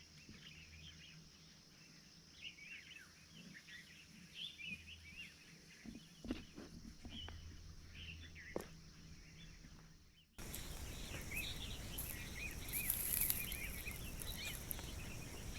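Many small birds chirping and calling in quick, overlapping short notes, with a few sharp clicks in the middle. About ten seconds in the background cuts abruptly to a louder, steady hiss while the bird calls go on.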